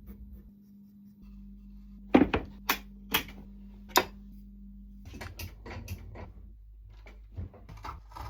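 A few sharp clicks, then a pencil scratching in short strokes on a wooden block as a design is drawn out.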